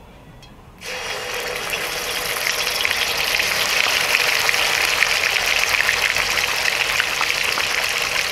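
Onion paste sizzling and crackling in hot oil as it is tipped into the pan. The sizzle starts suddenly about a second in and builds into a steady frying.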